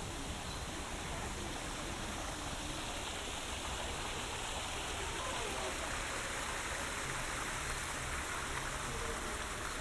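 Running water rushing steadily, with faint voices underneath.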